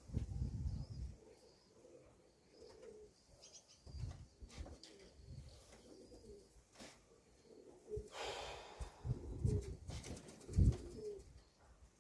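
Pigeons cooing, with short low calls repeating every second or two. A brief rustling noise comes about eight seconds in.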